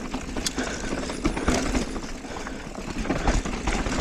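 Mountain bike descending a rough dirt trail: tyre noise over the ground with a constant rattle of clicks from the bike, and a low wind rumble on the microphone.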